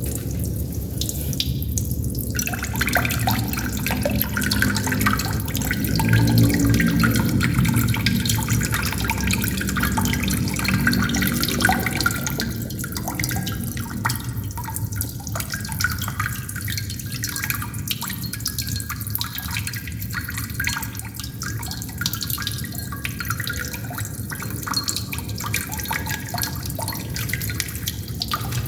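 Water droplets dripping continuously, many small drips in quick succession, over a steady low wash of running water that swells for a few seconds about a quarter of the way in.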